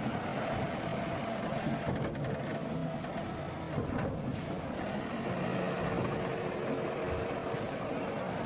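Heavy diesel earthmoving machinery running steadily, with two short hisses, about four and seven and a half seconds in.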